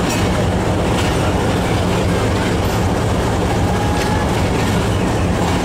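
Pakistan Railways passenger coaches rolling past close by: a loud, steady rumble of wheels on rails, with a few sharp clicks over rail joints and a faint, brief wheel squeal about four seconds in.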